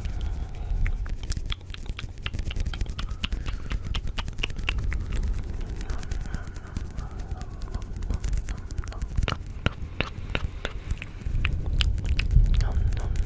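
Layered ASMR sounds: rapid, irregular clicking over a steady low rumble.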